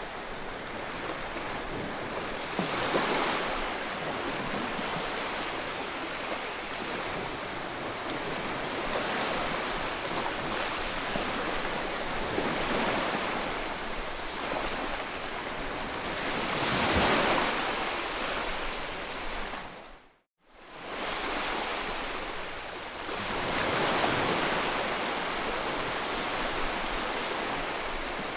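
Ocean waves breaking on shore: a steady wash of surf that swells louder with each breaking wave, three times most clearly. About two-thirds of the way through, the sound cuts out for a moment and then returns.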